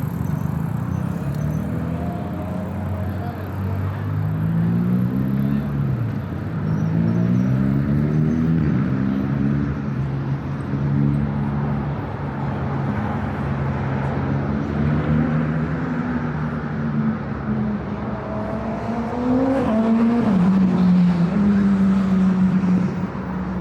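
Close road traffic: motor vehicle engines running, with several accelerations whose pitch rises, about four seconds in, again around seven seconds, and near the end.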